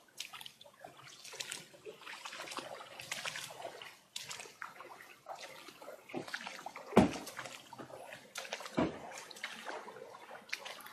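Floodwater splashing and sloshing in irregular bursts, with two sharper splashes or knocks, the louder about seven seconds in and another about two seconds later.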